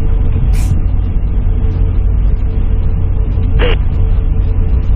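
Airliner cabin noise: a steady low rumble from the engines and airframe with a faint steady hum over it, and a brief click a little over three and a half seconds in.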